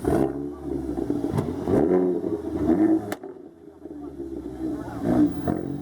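Car engine revving and accelerating, its pitch rising and falling in waves, with a sharp click about three seconds in.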